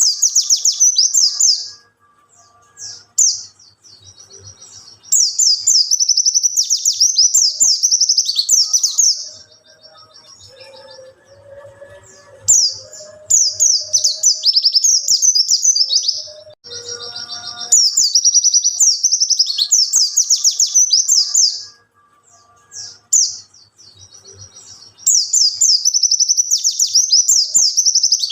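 White-eye (pleci) singing its wild-type song: bursts of fast, high-pitched twittering warble a few seconds long, about five of them, with short pauses between. It is the kind of song played to provoke other white-eyes into singing.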